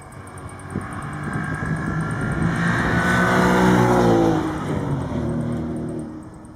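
Audi S5's 4.2-litre FSI V8 through an Akrapovič exhaust, accelerating: the engine note climbs and grows louder to a peak about four seconds in, then drops in pitch and fades as the car moves away.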